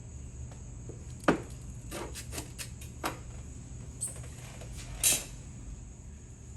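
Scattered light clicks and knocks of small objects being handled and set down, the sharpest about a second in and a short hissy scrape about five seconds in, over a steady low hum.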